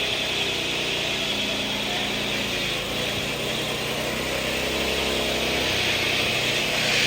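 Small vehicle engine running steadily, its pitch dipping and rising a little in the middle, with a steady hiss over it.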